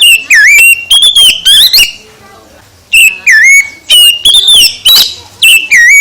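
Oriental magpie-robin (kacer) singing loudly: clear whistled notes with sliding pitch and quick high trills, in two runs of phrases with a pause of about a second between them.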